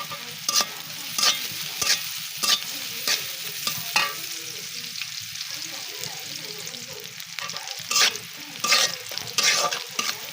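Food sizzling in hot oil in a pan while being stirred with a spatula. The spatula strikes and scrapes the pan in sharp strokes, about one to two a second, pausing for a few seconds in the middle.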